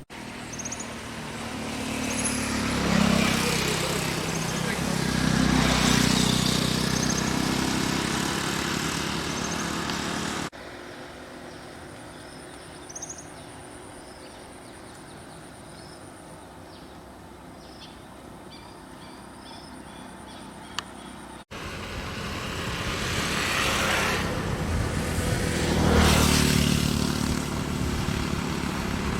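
Motor vehicle engines, motorcycles among them, swelling and fading as they pass. About a third of the way in the sound cuts to a quieter stretch with short high chirps, and near two-thirds it cuts back to passing engines.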